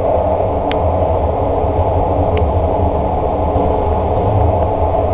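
Express train running through a long rail tunnel, heard from inside the carriage: a steady rumble of wheels on rail, with two brief ticks about a second and two and a half seconds in.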